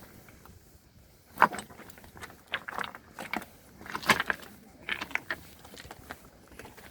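Bonfire crackling: irregular sharp pops and cracks in small clusters, the loudest about a second and a half in.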